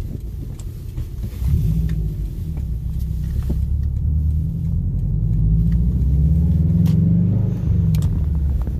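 2007 Subaru Legacy GT spec.B's turbocharged 2.5-litre flat-four engine running under way as the car is driven. The engine note gets louder about a second and a half in, rises and falls with the throttle, and dips briefly near the end.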